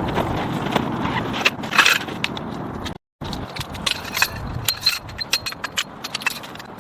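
Irregular clicks, crunches and scrapes over a steady hiss, cutting out completely for a moment about three seconds in.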